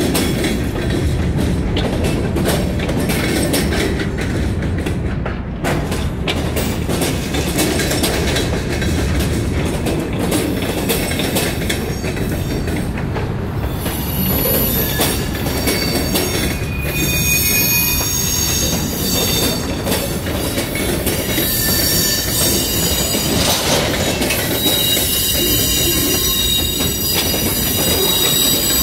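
Freight cars (covered hoppers and tank cars) rolling past close by: a steady rumble and clatter of steel wheels on the rails. From about halfway through, high-pitched wheel squeal comes and goes.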